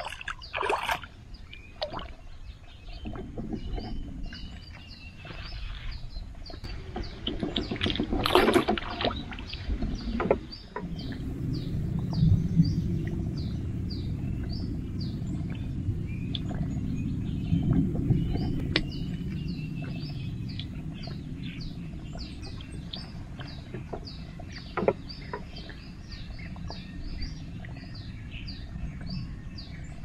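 Birds chirping, one short call repeated about twice a second, with a few gliding calls mixed in. A few knocks and rustles near the start and around eight seconds in, and a low rumble swelling through the middle.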